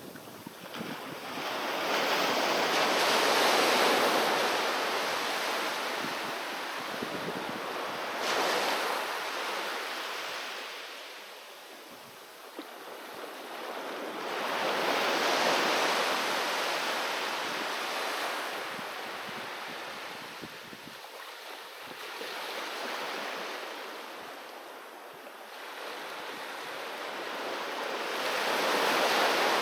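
Sea waves breaking on a beach, each surge of surf swelling and washing back, several waves over the span with the loudest near the start, in the middle and at the end.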